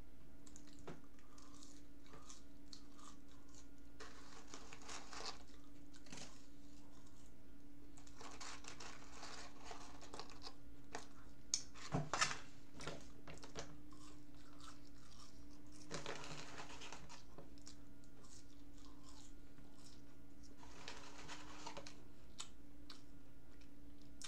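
Close-up chewing of McDonald's french fries, coming in several spells. A few sharp knocks near the middle, which are the loudest sounds, come as the paper fries carton is handled.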